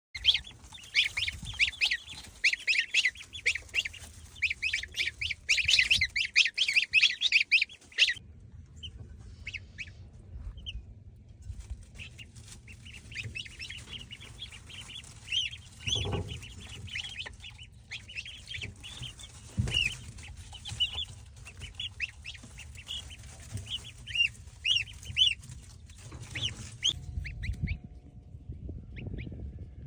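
Baby chicks peeping in a dense chorus of rapid high cheeps, loudest for the first several seconds. They break off suddenly, then come back sparser and quieter over a low rumble with a couple of soft thumps, and fall away near the end.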